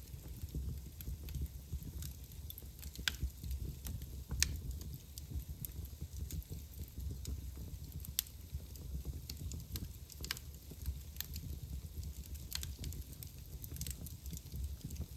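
Wood fire burning in a fireplace: a low steady rumble of the flames with scattered sharp crackles and pops, a few louder snaps among them.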